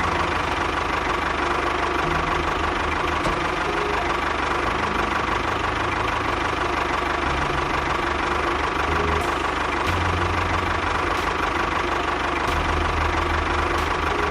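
Small engine of a DIY miniature tractor running steadily.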